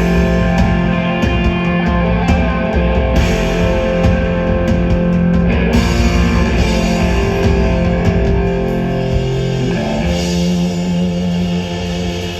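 Live rock band playing an instrumental passage: sustained electric guitar chords over bass and a drum kit, with no singing. The low end briefly drops out about ten seconds in.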